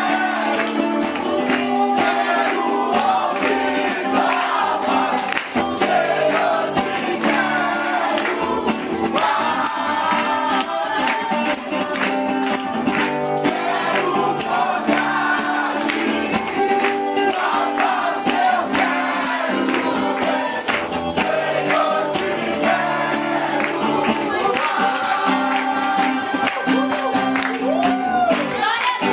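Congregational gospel worship music: a group of voices singing over a band, with a tambourine shaking along.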